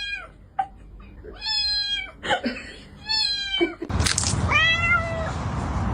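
A cat meowing four times, the second and last calls longer and drawn out. About four seconds in, a steady hiss of background noise comes in under the last meow.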